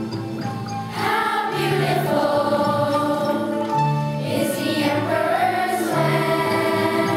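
Music with a choir singing over an instrumental accompaniment, a low bass note returning about every two seconds.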